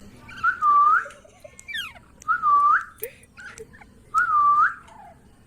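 Ringneck parrot whistling the same short call three times, evenly spaced. Each call is a clear note that dips and then swoops up sharply at the end.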